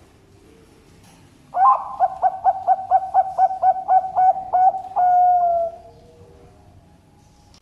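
Zebra dove (Bangkok perkutut) singing. About a second and a half in comes a quick run of about a dozen clipped coos, roughly four a second, ending in one long note that falls slightly in pitch.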